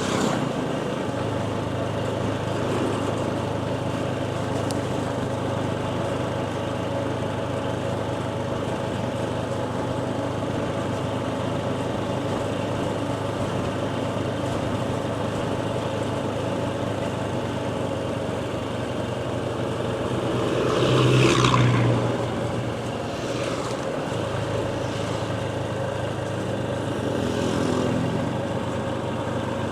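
Motorcycle running steadily on the move, its engine hum mixed with road and wind noise. A louder rush comes about two-thirds of the way through, and a smaller swell near the end.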